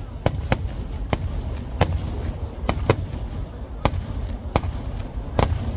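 Fireworks going off: about nine sharp bangs at irregular intervals, some close together, over a steady low rumble.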